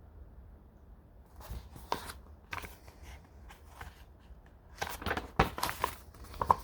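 Scattered short clicks and light knocks over a faint low hum, sparse at first and bunching together about five seconds in.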